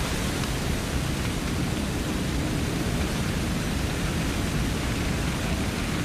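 Airport crash truck's roof turret spraying a high-volume jet of water or foam: a steady, loud rushing hiss with a heavy low rumble underneath.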